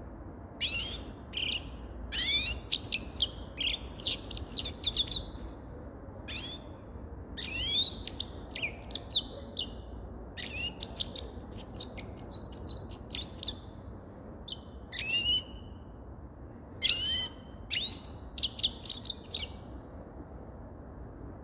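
Grey-crowned goldfinch singing: fast, twittering song phrases with quick up-and-down slides, given in repeated bursts separated by short pauses.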